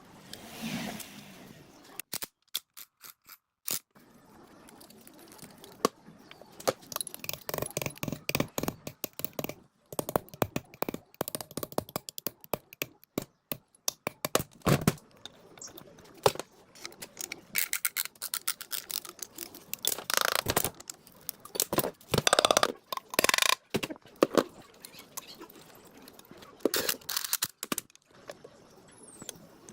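Irregular clicks, knocks and scraping from hand work on the generator's metal parts, in short uneven bursts with brief pauses, and no engine running.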